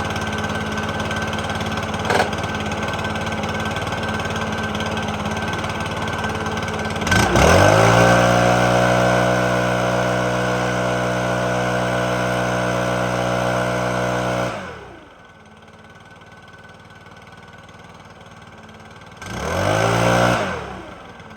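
Stihl BR600 backpack blower engine running, then throttled up about seven seconds in to a steady full-speed blow for around seven seconds before dropping back to a quiet idle. A short rev-up and fall follows near the end. The engine is freshly serviced, its low-speed carburettor screw adjusted, and is running well.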